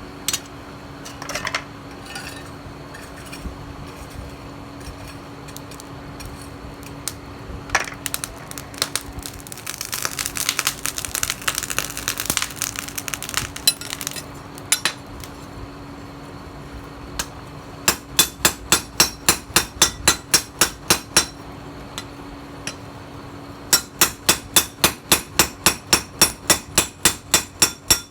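Hand hammer striking steel on an anvil while forging a knife blade from a tiller blade: two quick, even runs of blows at about four a second in the second half. Before them come scattered clinks and a short rattling stretch, over a steady low hum.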